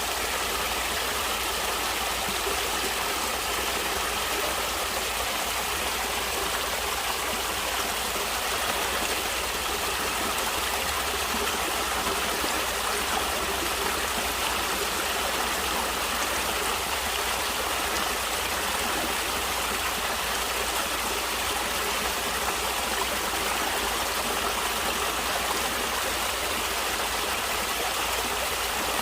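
Stream water flowing and splashing steadily, a continuous even rush with no breaks.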